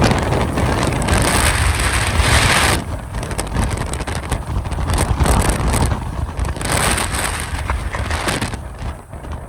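Strong, gusty Santa Ana wind buffeting the microphone with a deep rumble, with louder rushing surges of gust about a second in and again around seven seconds in.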